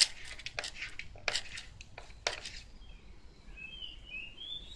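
A few short soft clicks in the first two seconds, then a small bird chirping a quick run of high notes in the background from about three seconds in.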